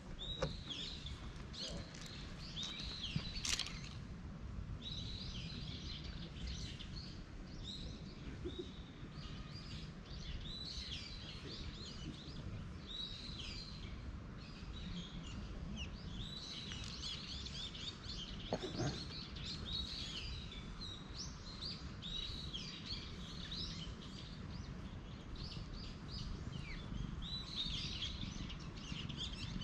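Wild birds chirping and calling in quick, repeated high phrases, over a steady low rumble. A single sharp click about three and a half seconds in.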